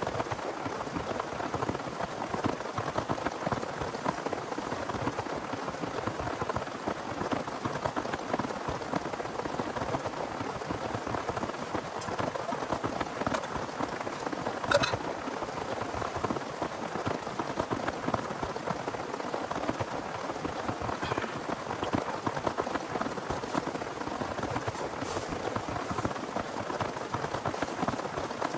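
Steady heavy rain falling, a dense even hiss of drops, with one sharp tap about halfway through.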